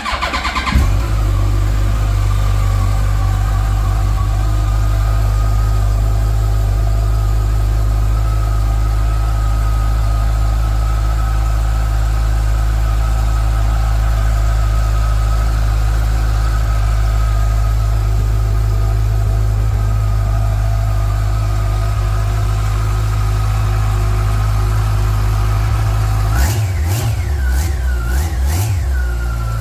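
2009 Yamaha FJR1300's inline-four engine through a 14-inch carbon Delkevic exhaust, starting up at the beginning and idling steadily. Near the end it is revved in a few quick throttle blips, then settles back to idle.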